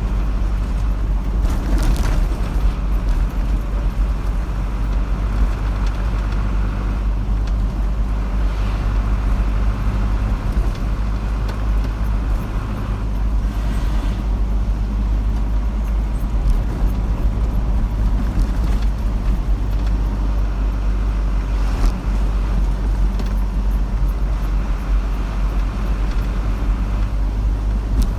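Steady road and engine noise of a car driving, a constant low rumble with a few faint clicks.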